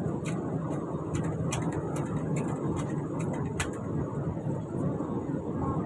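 Alstom Movia R151 metro train running, heard from inside the car: a steady rumble and hum from the wheels and running gear, with a scattering of sharp clicks and ticks, the strongest about three and a half seconds in.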